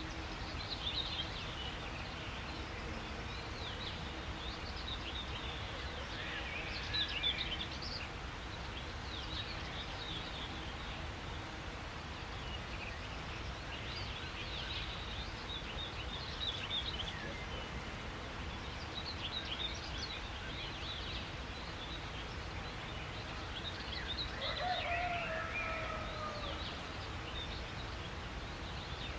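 Birds chirping and calling over a steady background hiss of outdoor ambience, with a lower, falling call about three-quarters of the way through.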